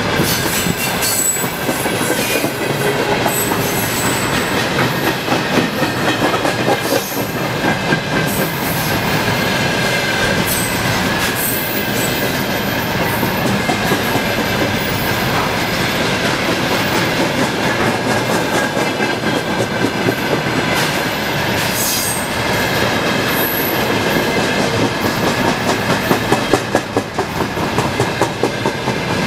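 Container freight train's flat wagons rolling past close by: a steady clatter of steel wheels over the rail joints, with a faint high squeal from the wheels.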